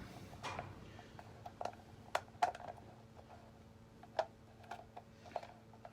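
A few scattered, irregular light clicks and taps of hand tools and bolts as an engine side cover is fitted and its bolts are tightened, over a faint steady hum.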